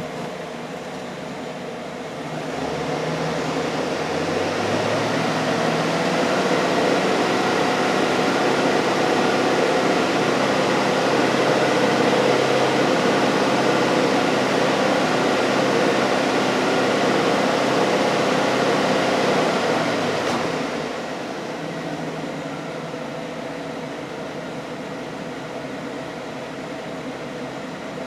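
2008 GMC Sierra Denali's 6.2 L V8 idling, then brought up to a higher steady engine speed about two and a half seconds in. It is held there for most of the time and drops back to a slightly lopey idle a little after the twenty-second mark.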